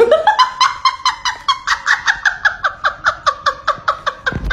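An animal calling in a rapid, even series of short, falling chirps, about six a second, ending near the close.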